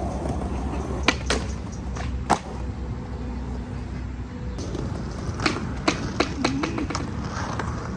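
Skateboard wheels rolling on concrete with sharp clacks of the board and trucks hitting the ground: a couple about a second in, one near two and a half seconds, and a quick cluster of four or five past the middle.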